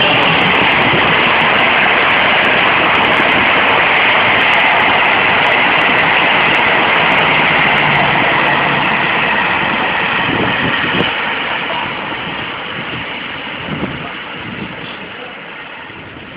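Train running past at the station: a loud steady noise of the train moving on the rails that fades away over the last several seconds as it moves off, with a few faint knocks.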